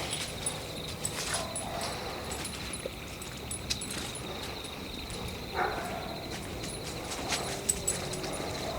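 Night forest ambience: a steady high insect trill with faint regular high ticks, scattered crunches and clicks underfoot, and a short animal-like call about five and a half seconds in.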